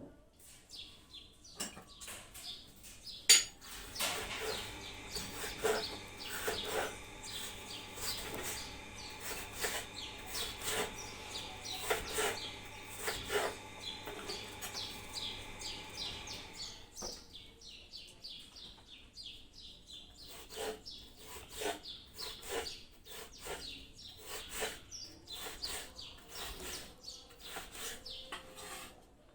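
Knife cutting potatoes into wedges, with irregular knocks of the blade on a cutting board, about one or two a second, one sharp knock a few seconds in standing out as the loudest.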